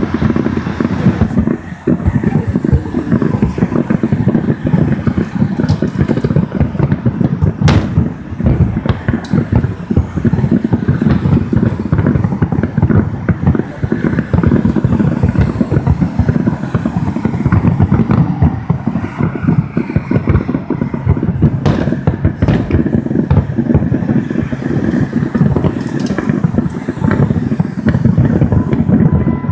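Fireworks display going off continuously: a dense, rolling rumble of overlapping booms, with a few sharper cracks standing out.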